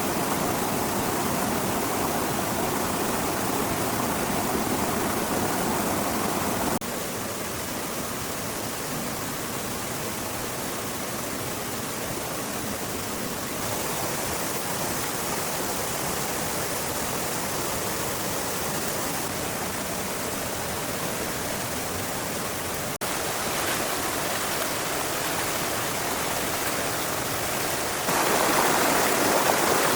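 Steady rushing of flowing water, like a stream, with no other sound standing out. Its level and tone jump abruptly a few times, about a third of the way in, again late on and once more near the end.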